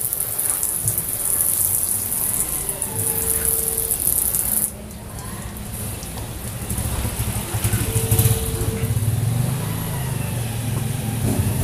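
Water spraying onto car window glass, a steady hiss that cuts off suddenly about five seconds in, followed by a low rumble.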